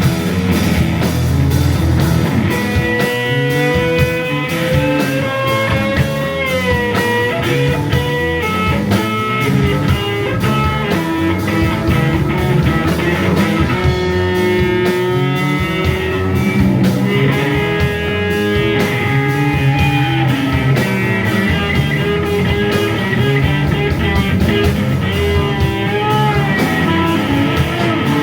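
Psychedelic rock band playing an instrumental passage: electric violin, electric guitar, bass and drum kit, with long held lead notes that bend and glide in pitch over a steady beat.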